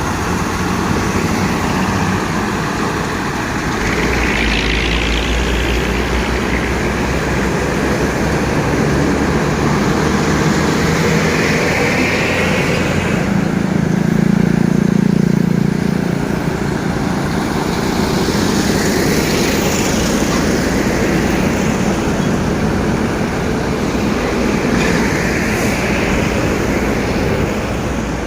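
A heavy road vehicle on the move: a steady engine drone with tyre and road noise, a little louder about halfway through.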